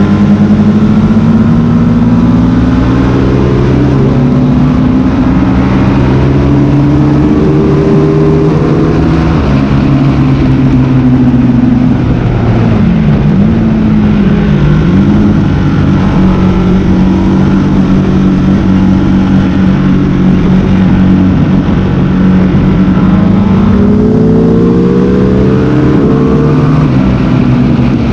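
Motorcycle engine at track speed, the pitch rising and falling as it goes through the gears, with quick sharp dips about halfway through as it changes down. A steady rushing noise sits underneath the engine.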